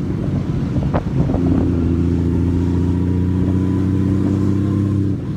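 Honda Valkyrie motorcycle's flat-six engine running while under way in traffic. Its note is uneven for about the first second, then holds steady, and drops away just before the end.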